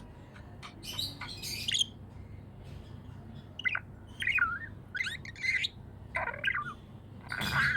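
Pet budgerigar chirping and warbling in short, irregular bursts of twittering with wavering pitch, in scattered clusters with short gaps between them.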